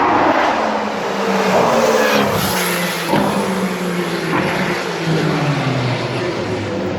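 Formula 1 car engine running loud, its pitch sinking slowly over several seconds.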